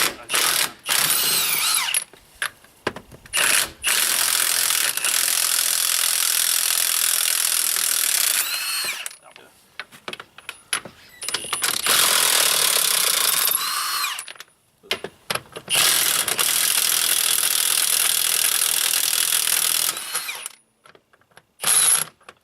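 Power impact wrench running in several bursts of a few seconds each on the tractor's wheel nuts, its whine rising as each burst starts and falling as it stops, trying to break the nuts loose.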